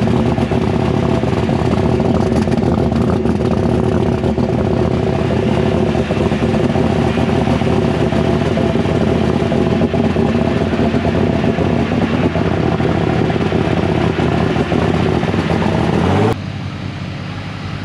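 Turbocharged superstock pulling tractor engine running loudly at a steady speed. Its pitch rises briefly just before the sound cuts off about sixteen seconds in.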